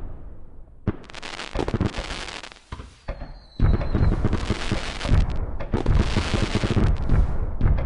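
Fireworks going off: a string of sharp bangs and crackling, a brief lull a little after the middle, then a dense, continuous barrage of bangs and crackle.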